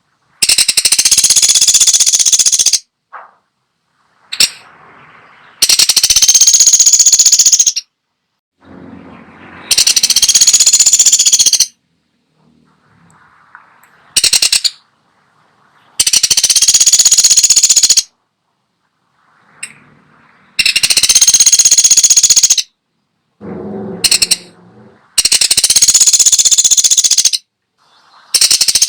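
Woodpecker (pelatuk sampit) giving loud, rapid rattling calls. Each rattle lasts about two seconds and repeats roughly every four to five seconds, with a few short single notes between.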